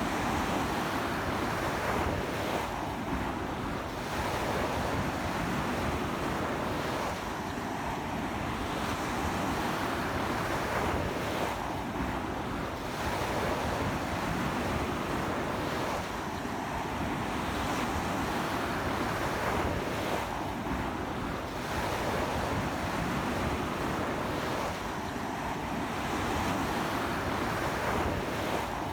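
Ocean waves breaking and washing up a beach in a strong sea wind, a continuous surf noise that swells and eases every few seconds, with wind buffeting the microphone.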